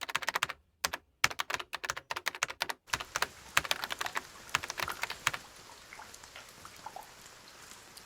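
Quick runs of sharp clicks broken by dead-silent gaps. About three seconds in, a soft steady rain hiss comes up beneath them. The clicks stop a little after five seconds, leaving the rain with scattered light drips.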